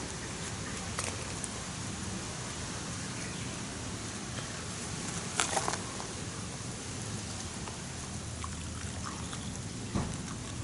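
Wood campfire burning: a steady crackling hiss with a few sharp pops, the loudest cluster about five and a half seconds in.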